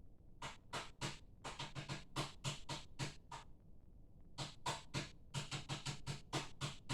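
A quick run of sharp knocks tapped out in a rhythm on a hard surface, like a beat being drummed, with a pause of about a second midway.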